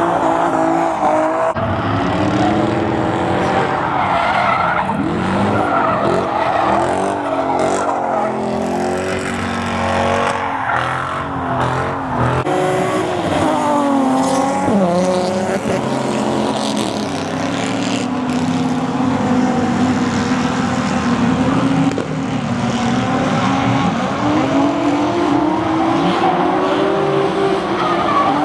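Car engines revving hard, the pitch rising and falling again and again, with tyres squealing and skidding, as in burnouts or drifting.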